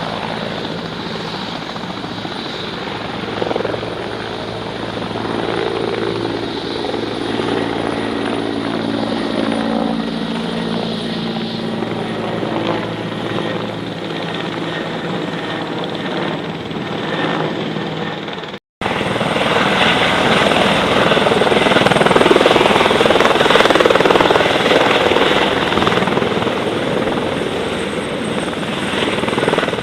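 Light propeller aircraft engines running: a steady engine drone with tones that sag slightly in pitch, then, after an abrupt cut about two-thirds through, a louder, rougher engine sound that swells and then eases off.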